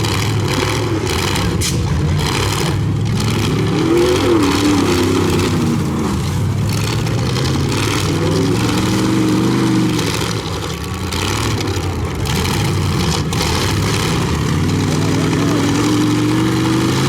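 Pickup truck engines in a demolition derby heat, revving up and down again and again as the trucks drive and ram each other.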